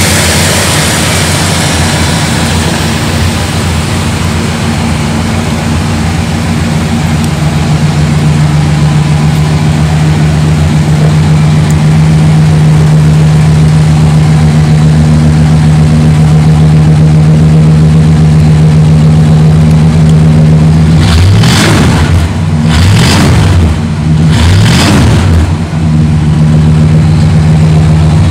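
The 1964 Chrysler Imperial's 413 cubic-inch big-block V8 idles steadily, then is revved three times in quick succession near the end.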